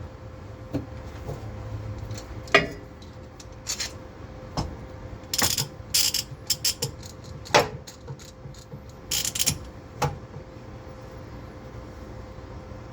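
Tools and metal parts knocking and clinking as they are handled, in a dozen or so separate sharp clanks over a low steady hum.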